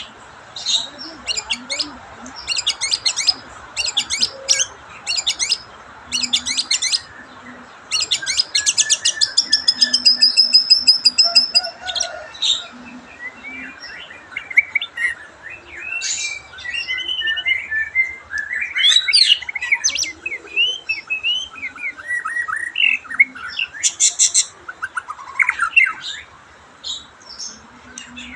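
White-rumped shama (murai batu) singing: runs of rapid rattling chatter, then a long held high whistle, then varied whistled phrases that rise and fall. The bird is coming out of a slump in form ('trouble'), its condition slowly improving.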